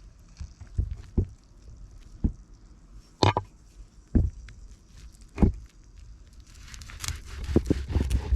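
Scattered soft thuds with crunching of forest litter and twigs, turning into a denser crackling rustle over the last second or so.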